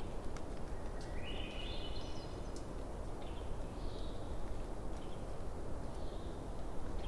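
Campfire burning with a steady low rumble and scattered sharp crackles. About a second in, an animal call of stacked tones lasts about a second and a half, and a few shorter, softer calls follow.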